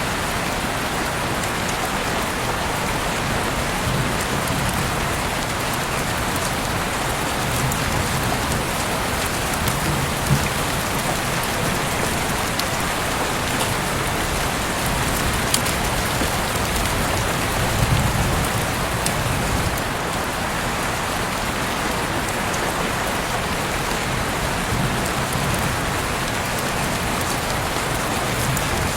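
Heavy rain falling steadily and pattering on surfaces outside an open window, with a few sharper drips standing out now and then.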